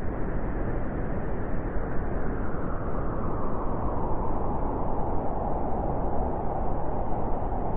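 Cold winter wind blowing steadily, an even rushing noise.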